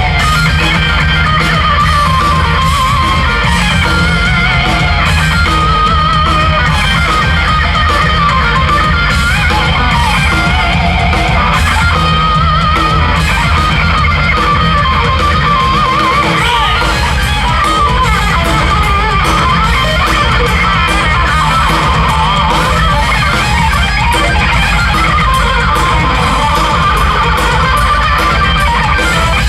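Live rock band playing loudly, with no singing: a distorted electric guitar plays a wavering lead line over pounding drums and bass.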